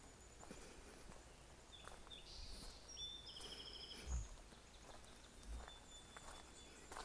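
Faint outdoor ambience on a walking trail: a small songbird gives a few high chirps and a short rapid trill about two to three seconds in, over soft footsteps. A single low thump comes about four seconds in.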